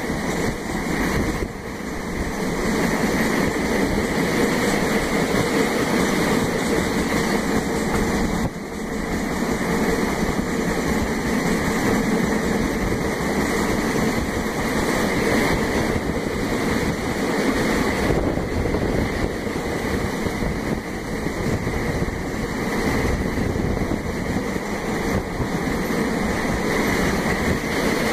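Train running along the track, heard from on board as a steady rushing noise of wheels, engine and wind buffeting the microphone, dipping briefly twice.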